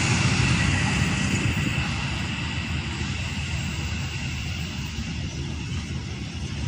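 Rumble of a passenger train on the rails, steadily fading as the train moves away.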